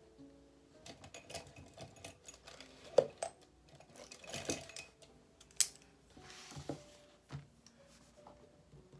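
Desk handling sounds while reading: scattered light clicks and taps, two sharper ones about 3 and 5.6 seconds in, and short paper rustles like pages being turned. Soft instrumental background music plays underneath.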